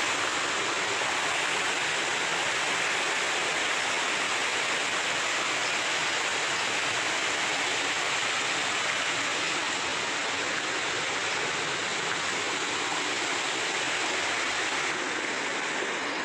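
Mountain creek water flowing over rocks: a steady, even rushing noise.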